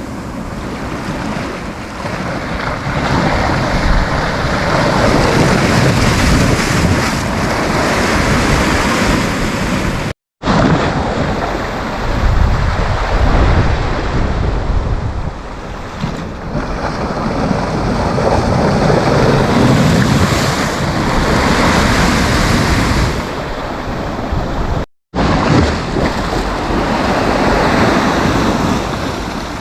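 Sea waves breaking and washing on a beach, the surf swelling and easing every few seconds, with wind buffeting the microphone. The sound cuts out for a split second twice.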